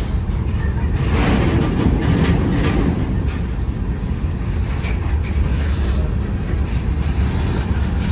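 Train passing close by: a steady low rumble with sharp clicks of wheels over rail joints.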